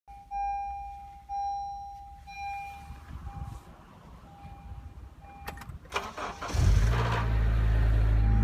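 The car's warning chime sounds several times, then the 2013 Honda Civic Si's 2.4-litre K24 four-cylinder cranks and catches about six and a half seconds in, running loud and steady at a cold-start idle. A brief grinding at start-up is the noise the owner suspects comes from a failing VTC actuator.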